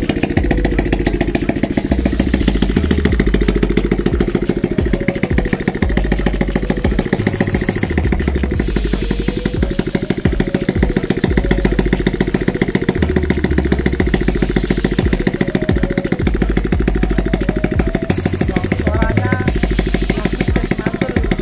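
Motorcycle engine being warmed up at idle with no exhaust pipe fitted, running loud and steady as a rapid, even string of firing pulses.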